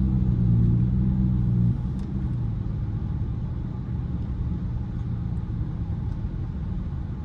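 Dodge car engine heard from inside the cabin, running under steady throttle at even revs. About a second and a half in, the throttle is let off and the sound drops to a lower, steady rumble.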